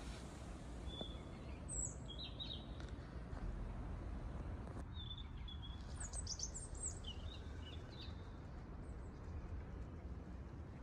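Small birds chirping in short high calls, a cluster about two seconds in and another from about five and a half to eight seconds, over a steady low outdoor rumble.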